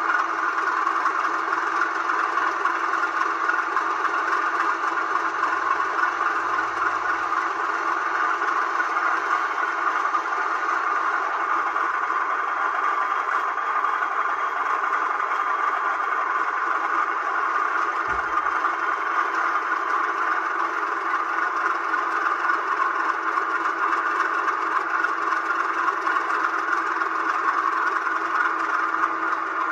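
Model diesel locomotive's DCC sound decoder playing a steady diesel engine sound through its small onboard speaker.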